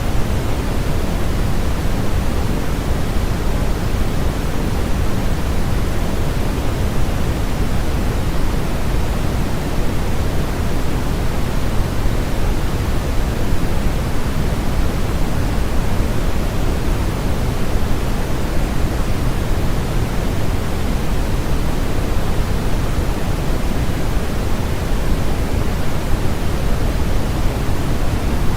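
Steady, unbroken electronically generated noise of the white-noise kind used as a sleep aid. It is heavier in the bass than in the treble, and there are no changes or events in it.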